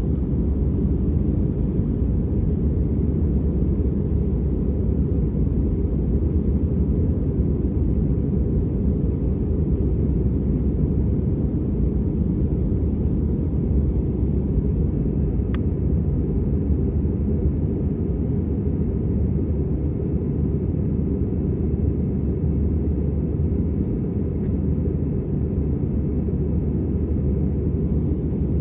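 Steady low drone of an Airbus A320's engines and airflow heard inside the passenger cabin, holding level throughout, with a single sharp click about halfway through.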